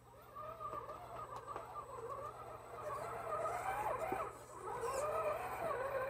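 RC crawler's Novak 55-turn brushed electric motor and gear drivetrain whining under load, the pitch rising and falling with the throttle as the truck crawls, louder in the second half.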